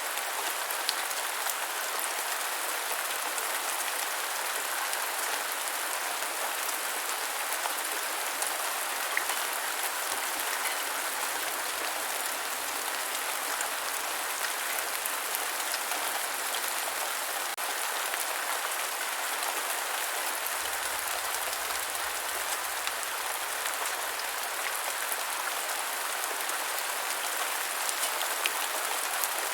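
Steady rain falling on the ground, an even hiss with many small drop ticks.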